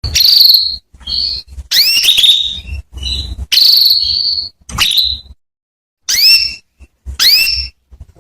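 Female canary calling: about eight loud, separate calls, each a quick rising chirp that sweeps up into a high whistle, some held for up to a second, with short silences between.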